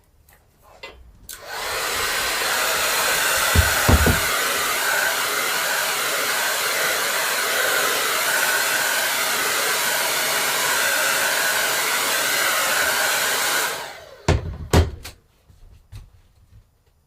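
A hand-held electric blower of the hair-dryer kind running steadily for about twelve seconds, switched on about a second in and off near the end. A couple of dull knocks come around four seconds in, and a few more knocks follow after it stops.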